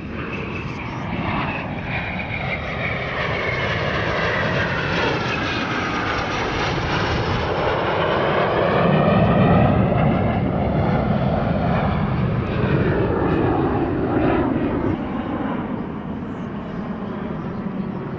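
Alpha Jet jet engines passing overhead in a display: a continuous rushing roar with sweeping, shifting pitch bands. It grows to its loudest about halfway through, then eases off.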